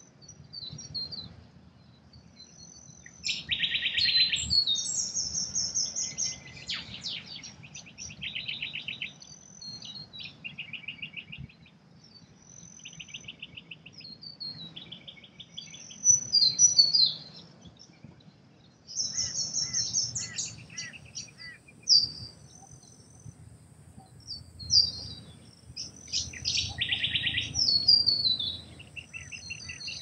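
Small birds singing: short, fast buzzy trills repeated every second or two, with higher chirps and whistles in between, several birds calling over a faint low rumble.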